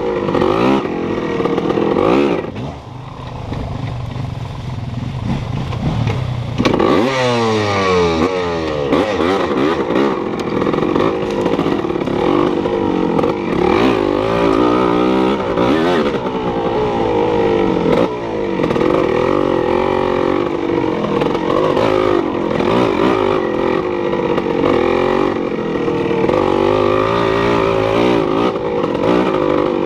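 A vehicle engine running and revving, its pitch climbing steeply about seven seconds in and then rising and falling again and again as it accelerates and eases off.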